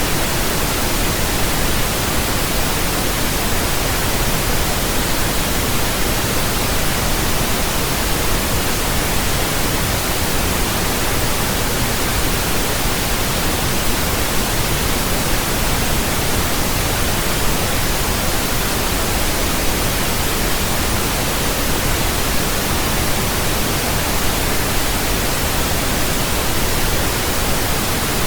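Steady synthetic pink noise: an even, unchanging hiss with a soft low rumble beneath it.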